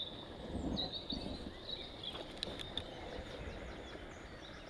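Small birds chirping, with a quick trilled phrase near the end, over a low outdoor background, and a few faint sharp clicks in the middle.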